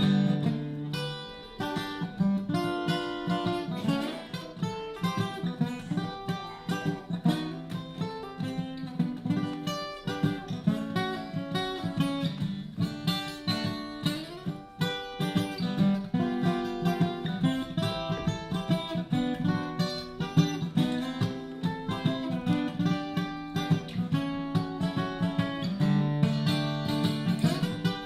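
Acoustic guitar made of mesquite playing an instrumental break between verses of a country song: a quick picked melody over alternating bass notes and strummed chords, many notes a second.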